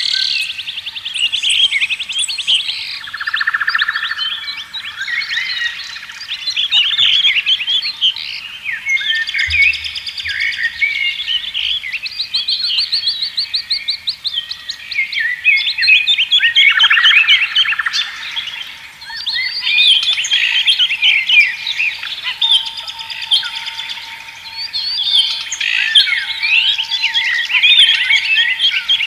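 Many songbirds singing together in a dense chorus of overlapping chirps and trills, with a faint steady high tone underneath.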